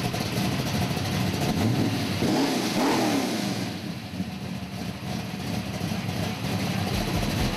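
Car engine running and revving, its pitch rising and falling a few times about two to three seconds in.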